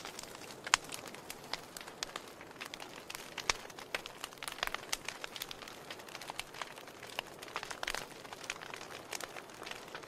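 Wood fire crackling: irregular sharp pops and snaps from burning logs over a faint steady hiss.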